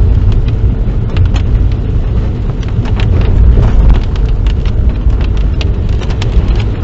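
Car being driven on a wet road, heard from inside the cabin: a steady, loud low rumble of engine and tyres, with many small irregular ticks and taps over it.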